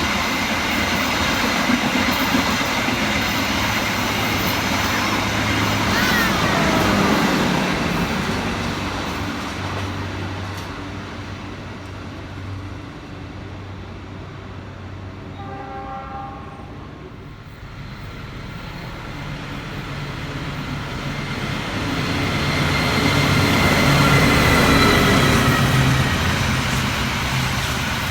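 A train runs loudly past on the rails and fades away. About halfway, when it is quieter, a train horn sounds briefly in the distance. Then another train approaches and passes, the rumble building again near the end.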